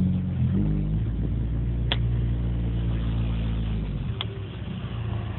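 2007 Honda Civic Si four-cylinder with a catless 4-2-1 header and Borla exhaust, running at a steady note under way, then easing off and dropping away about four seconds in. A few brief clicks sound over it.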